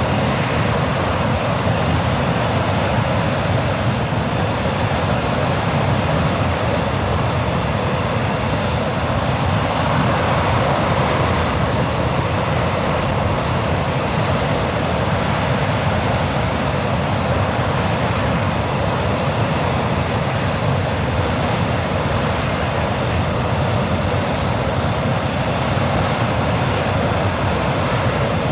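English Electric Lightning's No. 1 Rolls-Royce Avon turbojet running steadily during a ground test run: a loud, even jet rush that holds constant throughout.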